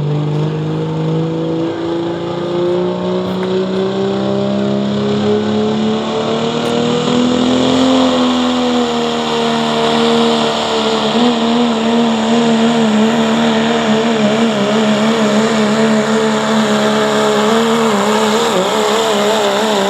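Diesel pickup pulling truck (a 1997 Dodge Ram) making a loud, full-throttle pass down the pulling track. The engine note climbs steadily for about eight seconds, then holds high and wavers quickly as the truck drags the sled.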